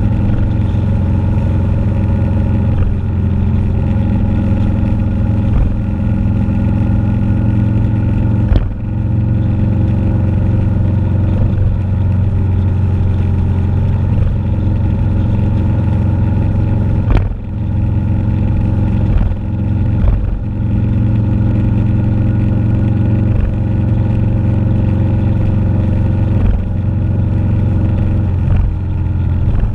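Motorcycle engine running at a steady cruising speed, heard from the bike while riding. The drone dips briefly a few times, as with the throttle easing off or a gear change.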